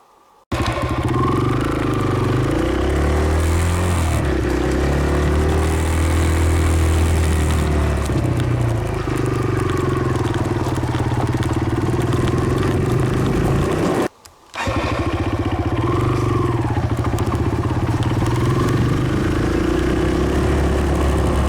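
Dirt bike engine running while being ridden, its pitch rising and falling with the throttle. It cuts in suddenly about half a second in and drops out for a moment about two-thirds of the way through.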